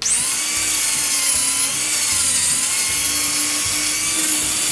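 Power tool spinning a wire wheel, starting abruptly and running steadily with a high whine and a hiss, brushing forge scale off the steel post. Its pitch wavers slightly while it runs.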